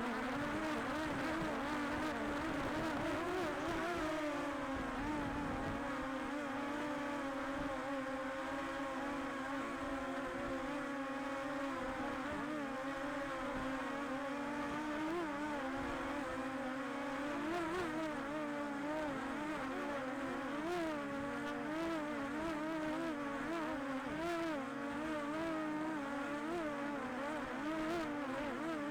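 DJI Air 2S quadcopter's motors and propellers whining steadily; the pitch dips about four seconds in and then wavers up and down.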